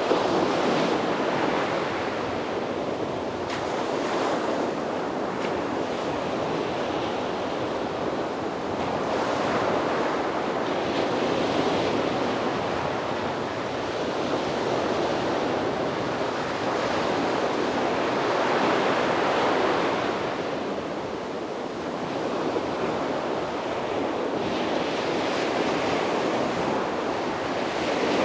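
Sea surf breaking and washing up a beach: a continuous rush of waves that swells and eases every few seconds.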